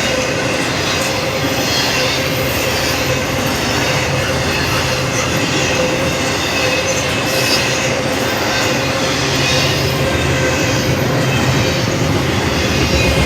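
Train rolling past at close range: a steady rumble and rattle of wheels on the rails, with a steady high-pitched tone over it.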